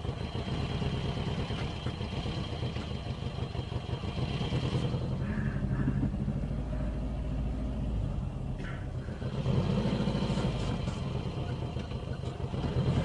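Car engine running steadily, a low even rumble with a rapid regular pulse, a little louder about ten seconds in.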